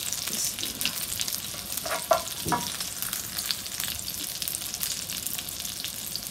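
Minced-beef patties (galawati kebab) shallow-frying in hot oil: a steady sizzle with many small crackles and pops of spattering oil.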